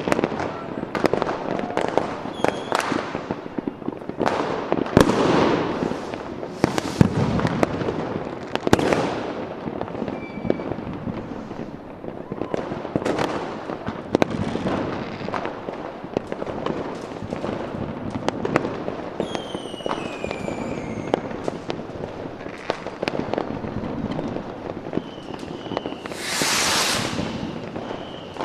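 Fireworks: a steady stream of sharp bangs and crackling, with several whistles falling in pitch around twenty seconds in and a loud hiss near the end.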